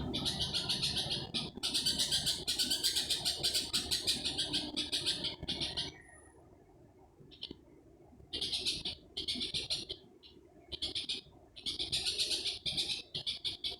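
A rhythmic night-time call that the uploader takes for a bird: fast trains of high-pitched pulses delivered in long bouts, with a break of about two seconds near the middle before it starts up again.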